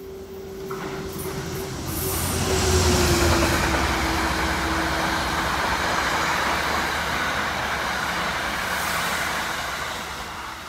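A passenger train passing the station platform at speed. A steady tone drops in pitch about three seconds in as the train goes by, over train noise that swells, holds, and fades near the end.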